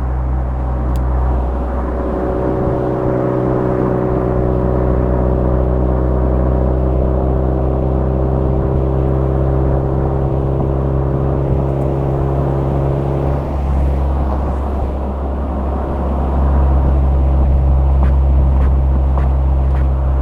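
Suzuki Swift Sport ZC33S's 1.4-litre turbocharged four-cylinder running through a Fujitsubo aftermarket muffler, a steady low exhaust drone while cruising on an expressway. The tone shifts about thirteen seconds in, and the drone grows louder a few seconds later.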